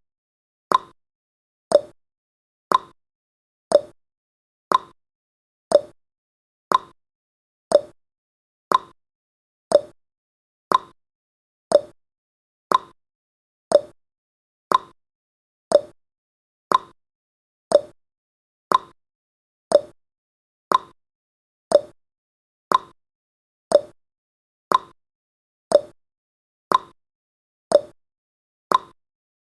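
Countdown timer's clock-ticking sound effect: one sharp tick a second, alternating higher and lower like a tick-tock.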